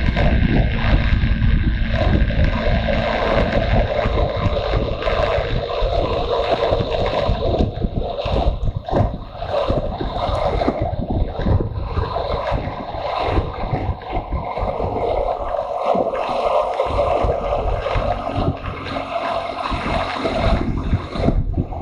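Motorcycle on the move: its engine running under wind rushing over the microphone, with the level dipping briefly now and then.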